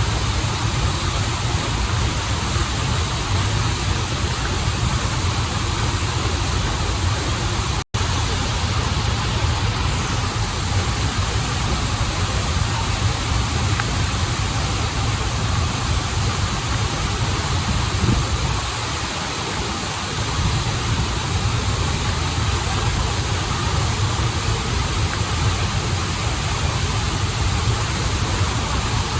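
Steady rushing of a stream and small waterfall, with a deep low rumble under the splashing. The sound cuts out for an instant about eight seconds in, and the low rumble thins briefly a little past the middle.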